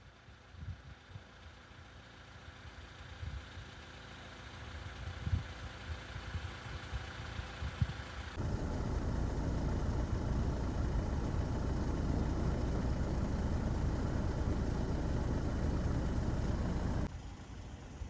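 Heavy truck engine and road noise: a faint, slowly growing rumble with a few low knocks, then from about eight seconds in a louder, steady engine and road noise that cuts off suddenly near the end.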